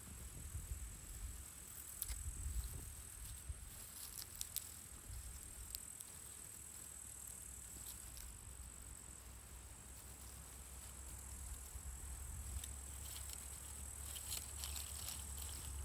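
Crickets trilling steadily in high, unbroken tones, with scattered faint clicks and rustles and a low rumble underneath.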